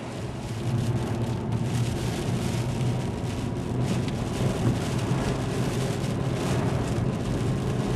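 A car driving along a road: a steady low hum from the engine and tyres under an even noise.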